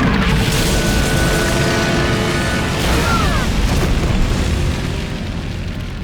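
A cartoon boom sound effect: a sudden loud blast that rumbles on and slowly fades over several seconds, over a music score.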